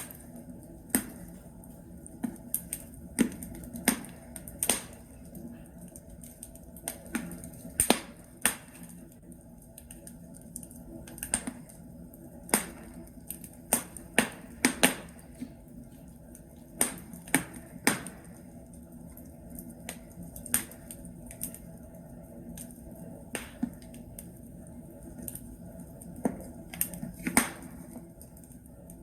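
Burning logs in a fireplace crackling, sharp irregular pops and snaps, several a second at times, over a low steady hiss of the fire.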